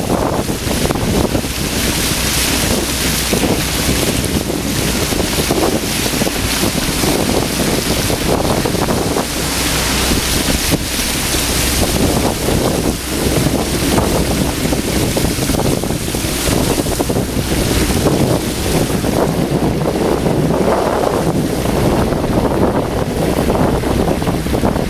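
Steady rushing of floodwater in a street, with wind buffeting the microphone.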